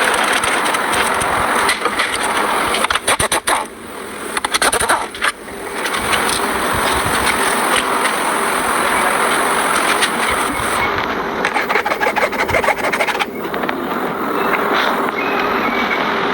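A car on the move: a steady rush of road and wind noise, broken twice by a spell of sharp clicks and brief dips in level.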